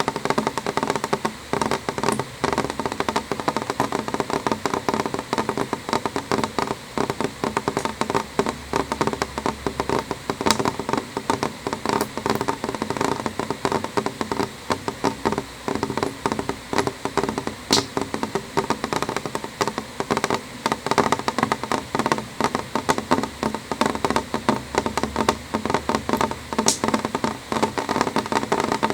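Rain falling on a window pane: a dense, steady stream of small taps on the glass, with a few sharper clicks now and then.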